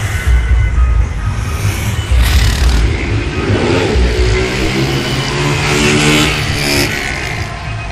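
Motorcycle engine revving as it passes, the note climbing steadily from about four seconds in until it cuts off just before the end, over a heavy low rumble.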